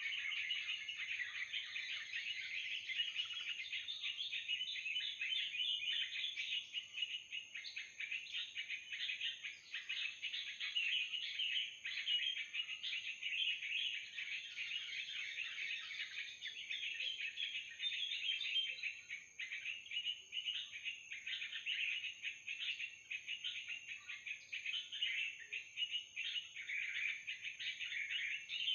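Yellow-vented bulbul (trucukan) calls: dense, unbroken chattering with no pauses, the calling used as an mp3 lure to bring the birds down to a net. A thin steady high whine runs above the calls.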